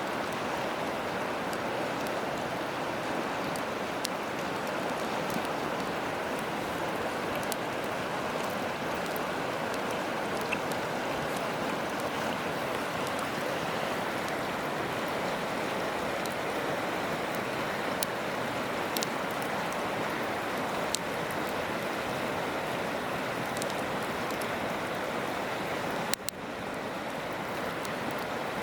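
A river rushing steadily, with scattered sharp crackles and pops from a wood campfire.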